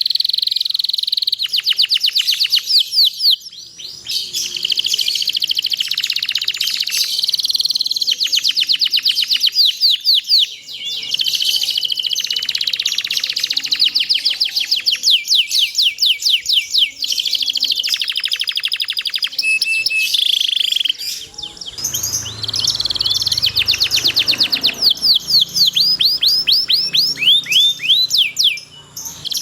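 Domestic canary singing a long, rapid song of fast rolling trills and quickly repeated sweeping chirps, broken by a few short pauses.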